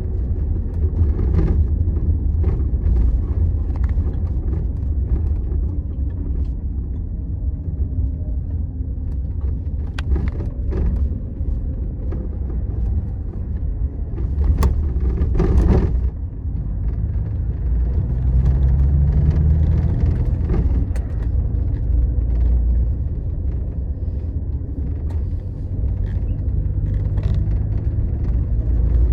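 Steady low rumble of a Scania Astromega double-decker coach on the move, heard inside the cabin: engine and road noise, with scattered light clicks and rattles and a brief louder surge about halfway through.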